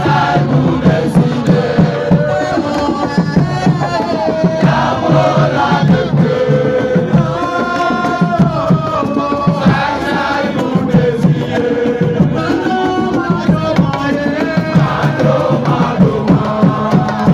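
A crowd of football supporters singing and chanting together over fast hand drumming.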